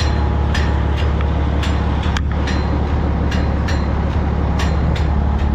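Articulated dump truck's diesel engine idling steadily, with the exhaust stack's rain flap clacking in an even beat about two to three times a second; the flap is awful noisy.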